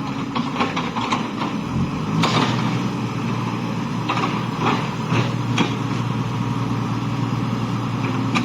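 A heavy vehicle's engine running steadily, with scattered knocks and rattles over it.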